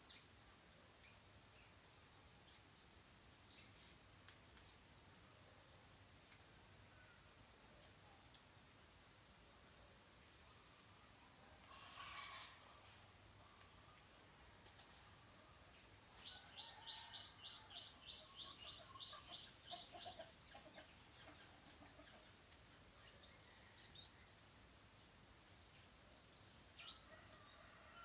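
Cricket chirping in long trains of rapid, even, high-pitched pulses with short pauses between them, while a bird gives a few brief chirps in the middle.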